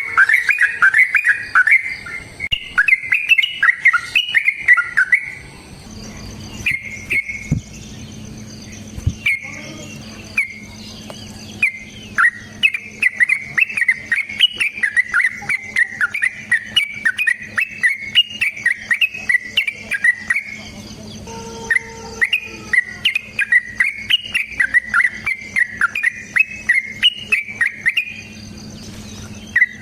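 Yellow-vented bulbul (trucukan) singing long, rapid, bubbling song phrases. Three long runs are split by pauses filled with short single calls.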